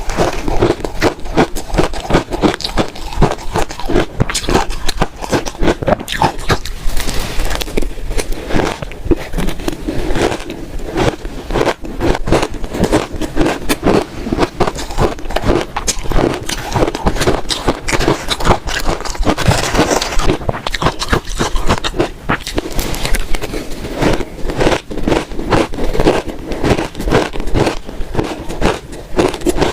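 Close-miked crunching of frozen shaved ice being bitten and chewed by the spoonful: a dense, unbroken run of crackling crunches.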